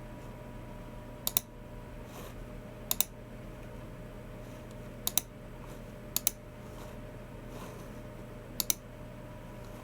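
Logicool G304 mouse button clicked five times at uneven intervals, each a sharp double click of the switch pressing and releasing. Fainter soft ticks of low-profile keyboard keys come in between.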